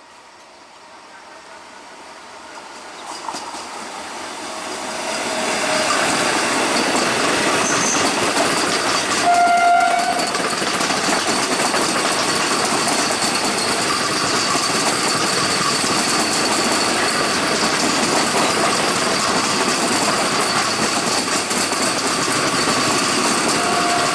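An AC electric local train (EMU) approaches and runs past. Its noise builds over the first six seconds, and a short horn blast sounds about nine and a half seconds in. After that comes a steady rumble and clatter of wheels on rail as the coaches go by.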